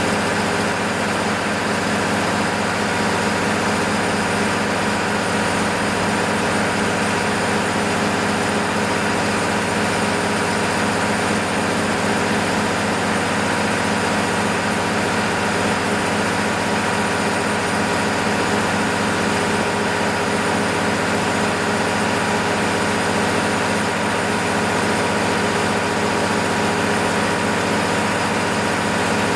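MEP-006A military generator set's six-cylinder diesel engine running at a steady speed, a continuous even drone with fixed tones that do not change pitch, as it holds speed during a load test after a full overhaul.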